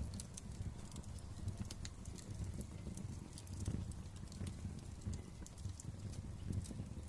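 Wood fire crackling: a low steady rumble of burning with sharp, irregular pops and snaps scattered throughout.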